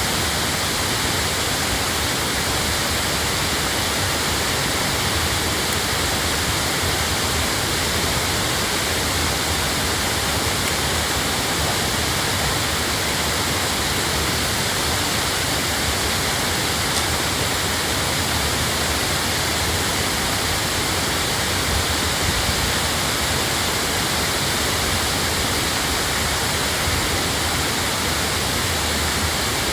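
Waterfall pouring steadily: a dense, even rush of falling water that does not change.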